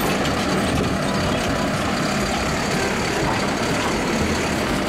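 Garbage truck engine running steadily, an even unbroken noise.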